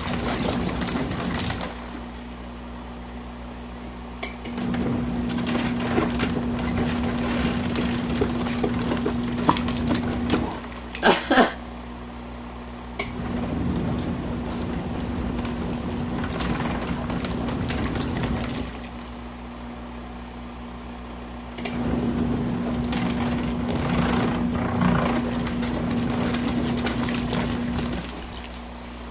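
Portable twin-tub washing machine's wash motor churning a load in standard mode: it runs with a steady hum for about six seconds, stops for about three, and starts again, three times over, as the agitator reverses. A couple of sharp knocks sound about eleven seconds in.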